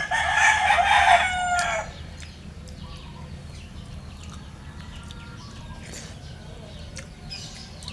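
A rooster crowing once, a single pitched call about two seconds long that drops at the end. After it, faint scattered clicks over a low steady hum.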